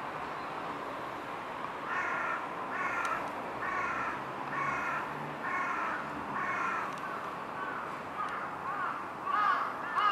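A bird calling, a series of calls about one a second, then a quicker, louder run of calls near the end, over a steady background hiss.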